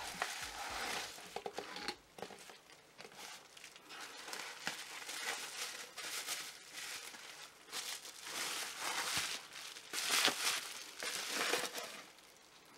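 Bubble wrap crinkling and crackling as it is handled and pulled off a boxed battery pack, in repeated bursts, the loudest about ten seconds in.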